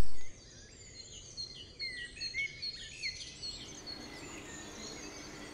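Small birds chirping: a quick run of short, mostly falling chirps that comes and goes over a faint steady hiss.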